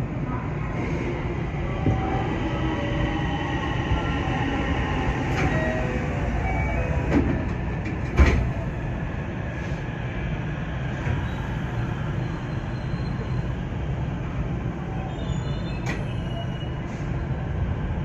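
JR West 225 series electric train running along the line, heard from inside the car: a steady rumble of wheels on rail with faint pitched whines, broken by a few sharp knocks. The loudest knock comes about eight seconds in.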